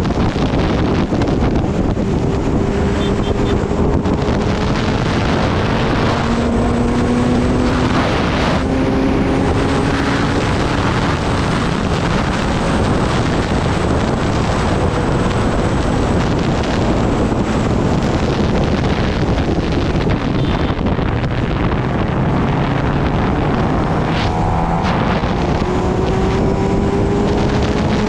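Kawasaki Ninja ZX-10R's inline-four engine running under way, half buried in heavy wind noise on the microphone. Its pitch climbs slowly as the bike gathers speed, over the first several seconds and again near the end.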